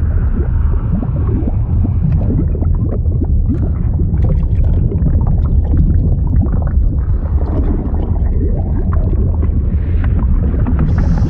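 Fluid sound effect: a dense, steady low churning of liquid, overlaid throughout by many small bubbling pops and gurgles.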